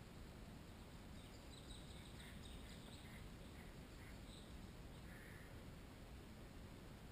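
Faint, thin, high-pitched bird calls, a run of short notes from about a second in until past the middle, over a quiet steady background hiss.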